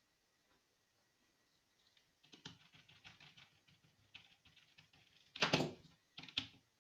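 A run of small clicks and rattles of hard objects being handled, with a louder clatter about five and a half seconds in and another shortly after.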